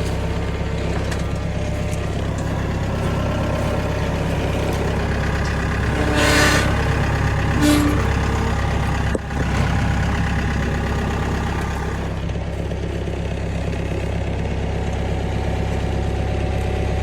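Tractor engine running steadily while towing a loaded trailer at low speed. A brief scraping rustle comes about six seconds in, and a sharp knock a little after nine seconds.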